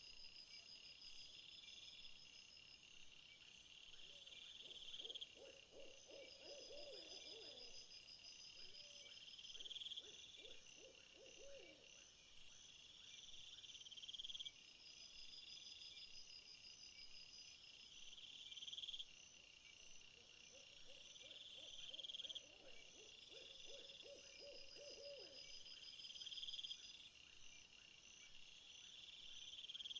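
Insect chorus of repeated buzzing calls, each swelling and cutting off about every four to five seconds, over a faster high chirping. Twice a lower wavering trill sounds, a few seconds each time.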